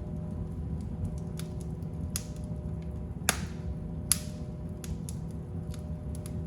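Wood fire crackling in a fireplace: a steady low rumble of the flames with scattered small crackles, and two louder sharp pops close together near the middle.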